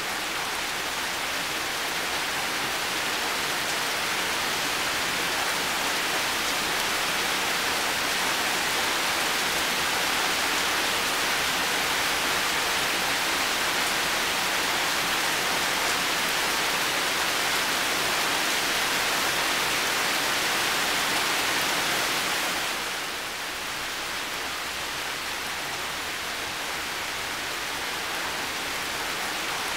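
Heavy rain falling steadily in a garden, a dense even hiss. It eases slightly about three-quarters of the way through, then slowly builds again.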